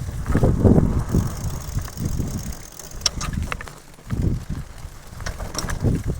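Fat-tyre bike being ridden: uneven low rumbling from the ride with scattered short clicks and rattles.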